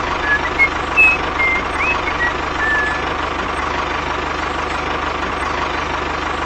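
A small engine running steadily, with a few short bird chirps over it in the first three seconds.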